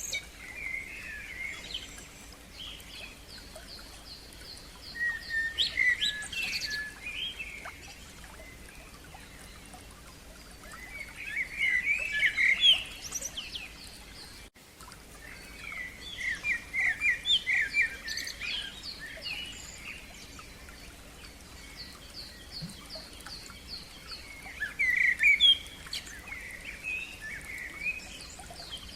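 Songbirds singing in separate phrases of quick, sliding notes, with another bird keeping up a long series of short, high, rapidly repeated notes behind them. The sound drops out for a moment about halfway through.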